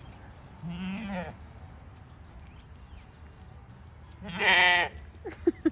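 An animal calling twice with a wavering, bleat-like cry of about half a second each, the second call much louder, followed by a few short sounds near the end.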